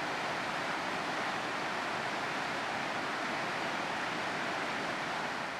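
Steady rushing of a waterfall, an even, unbroken roar of water.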